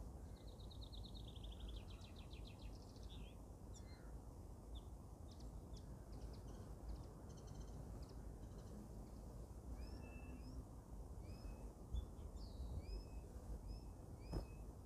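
Several songbirds singing: a fast trill at the start, then scattered chirps and a run of short, repeated rising notes, over a low steady background rumble. A couple of faint knocks near the end.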